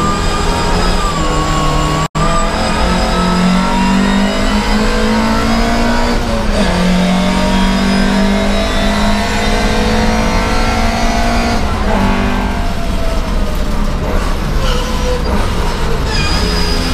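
Volvo 544 Sport's four-cylinder race engine at full throttle, heard from inside the cockpit: the revs climb steadily and fall sharply at gear changes about six and twelve seconds in.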